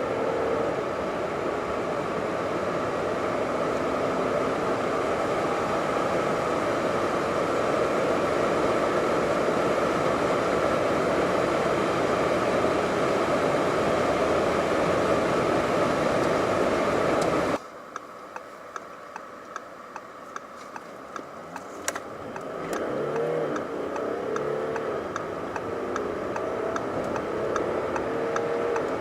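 Audi A7 45 TDI's 3.0 V6 turbodiesel under hard acceleration with loud road and wind noise, which cuts off abruptly after about 17 seconds. A steady ticking follows at about two ticks a second, and then the engine picks up again with its pitch rising.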